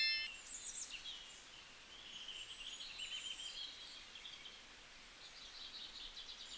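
Faint birds chirping in the background over quiet outdoor ambience. A short high ringing tone fades out right at the start.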